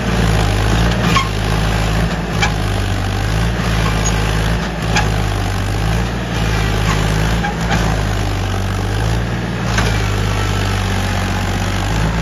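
Powertrac tractor's diesel engine running at a steady speed, a low, even hum.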